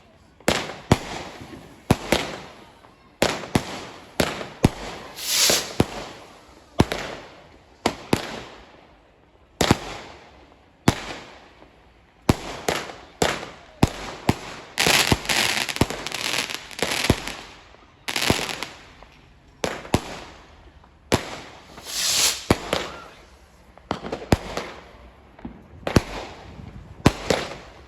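Fireworks going off: dozens of sharp bangs, often less than a second apart, each fading quickly. Three longer, louder noisy bursts come about five seconds in, in the middle and about three quarters of the way through.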